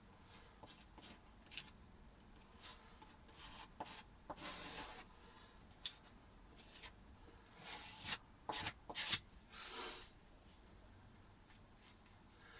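Intermittent rubbing and rustling of hands handling materials, with a few longer swishes and a single sharp click about six seconds in.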